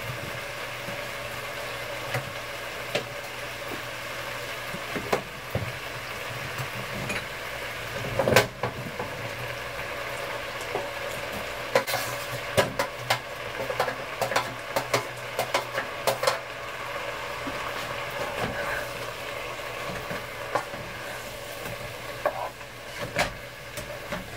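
Bread stuffing with sausage sizzling in a pot on the stove while a spoon stirs and scrapes it, with a run of clicks and knocks in the middle as sausage crumbles are scraped off a plate into the pot.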